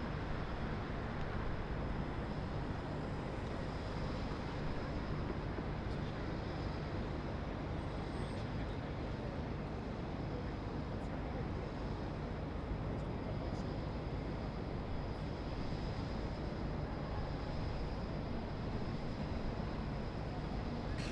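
Steady city traffic noise: an even wash of road sound with no single vehicle standing out, and a faint steady high whine running through it.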